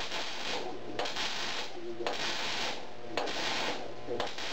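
Hand sanding strokes, one about every second, each a steady scratchy rub lasting most of a second with a brief pause between.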